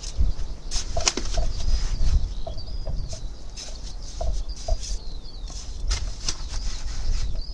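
Birds calling: short low clucking notes repeated at irregular intervals, with thin high chirps above them, over a low rumble.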